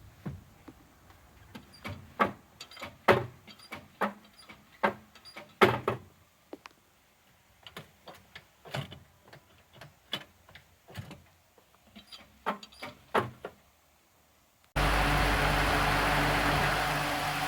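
Clutch and brake pedal linkage of a Mitsubishi J3 Jeep being worked by hand, giving irregular clicks and light clunks at up to a couple a second for about thirteen seconds. Near the end a steady noisy sound starts abruptly.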